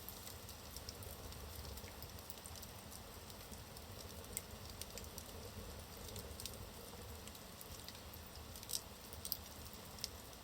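Logs burning in a fireplace: a faint steady hiss with scattered small crackles and pops, and a few louder pops in the second half.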